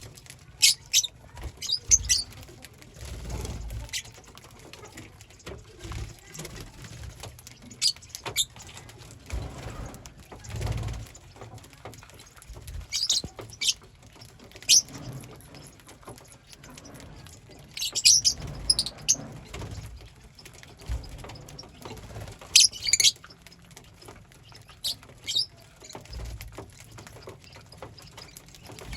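Pet lovebirds giving short, shrill chirps in scattered clusters every few seconds, with soft low thumps and rustling between them.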